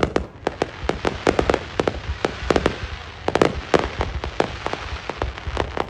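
Fireworks going off: a quick, irregular run of bangs, several a second, over continuous crackling.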